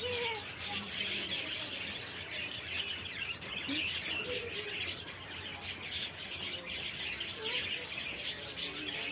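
Many small birds chirping together in a dense, continuous chorus of short high chirps, with a few brief lower calls scattered through it.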